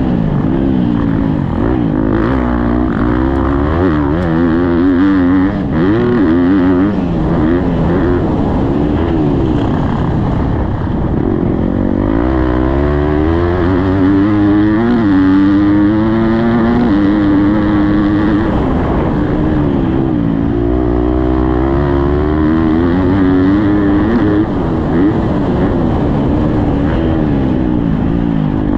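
Motocross dirt bike engine revving hard and continuously, its pitch rising and falling over and over with throttle and gear changes as the bike is ridden round the track.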